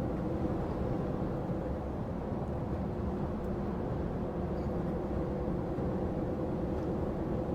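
Heavy goods lorry cab on the move: steady engine drone and road rumble, with no changes in pitch or level.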